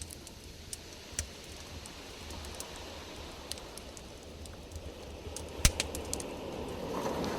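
Campfire crackling: scattered sharp pops, the loudest a little past halfway followed by a quick cluster of smaller ones, over a steady low rumble.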